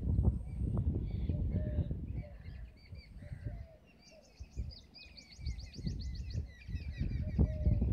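Small birds chirping and trilling, with fast runs of high notes, over a low rumbling noise on the microphone that fades for a moment near the middle.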